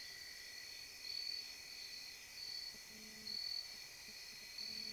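Night insects calling: short, high chirps repeating about every two-thirds of a second over a steady high trill. A faint low hum comes in about three seconds in and again near the end.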